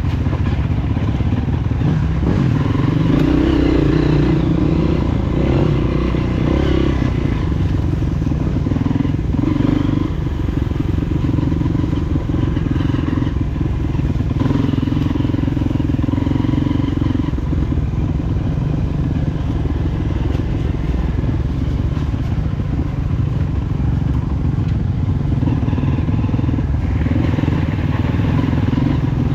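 Honda CRF230F trail bike's single-cylinder four-stroke engine running under way, its note shifting up and down with the throttle.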